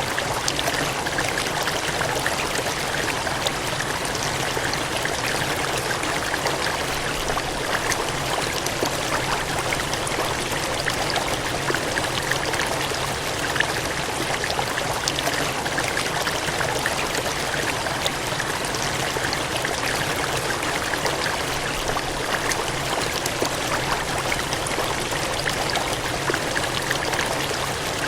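Steady gushing of cascading water, a dense even rush with many small splashes.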